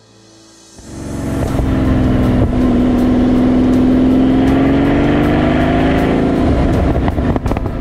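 Pagani Huayra BC's twin-turbo AMG V12 running as the car drives up close: the engine note swells about a second in, holds loud and steady, its pitch drifting slightly and easing off near the end.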